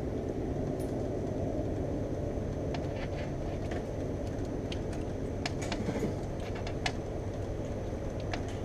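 Steady low rumble of a train passing some way off, just after its horn has sounded. Scattered light clicks and taps sound over it.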